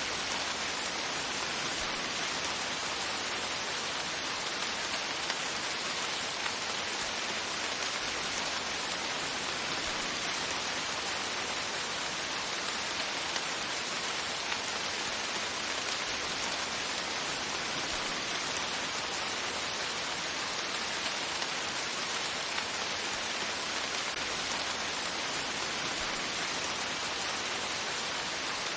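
Steady rain falling and pattering on a surface, an even hiss of many drops that keeps up without pause.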